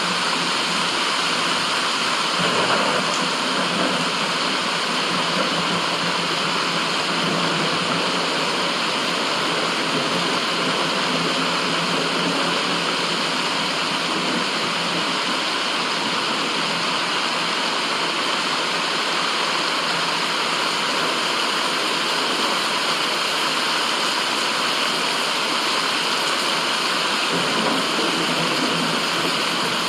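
Steady rushing water, a continuous even hiss like a stream or waterfall, with no change in level.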